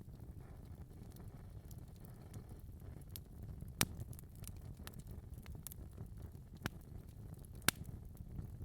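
Wood fire burning in a fireplace: a steady low rumble of the flames with scattered crackles and pops, two sharper pops standing out near the middle and near the end.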